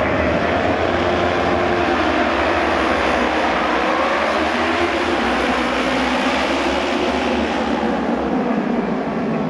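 Several auto race motorcycles' 600 cc twin-cylinder engines running hard around the oval, their pitch rising and falling as the bikes pass and circle.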